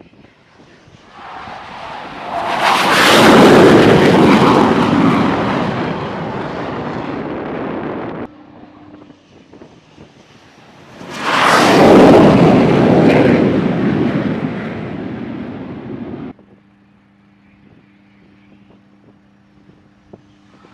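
Two takeoffs of a T-45 Goshawk jet with its single Rolls-Royce Adour turbofan, each a loud jet roar that swells within a second or two, then eases off and breaks off abruptly. Between and after them a quieter low steady hum.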